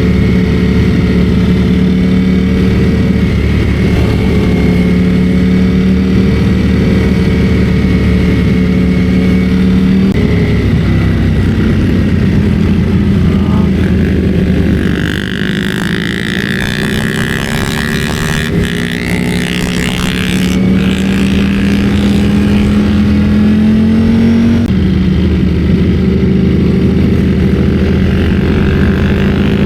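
Ducati Streetfighter V4 S's 1103 cc V4 engine running under way at steady revs. The pitch drops twice, about a third of the way in and again near the end, like upshifts, and it starts climbing again just before the end.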